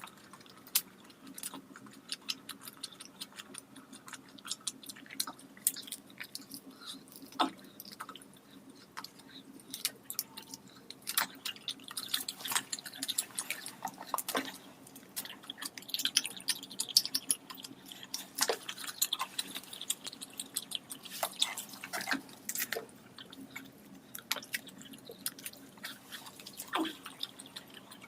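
Close-miked eating: wet chewing, lip smacks and mouth clicks, coming irregularly, several to the second at the busiest.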